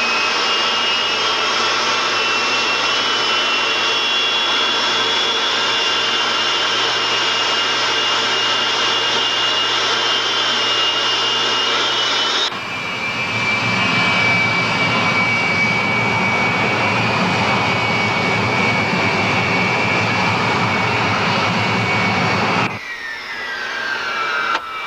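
Turbojet engines of Aermacchi MB-339 jets running with a loud steady whine, the high tone rising slowly. About halfway in the sound jumps abruptly to another steady whine, and near the end it jumps again to whine tones falling in pitch.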